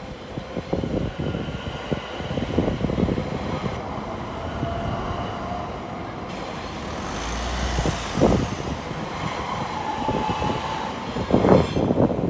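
A London Overground electric multiple unit passes through a level crossing. It gives a steady running rumble, broken by many quick knocks from the wheels, with a faint steady whine in the middle of its passage.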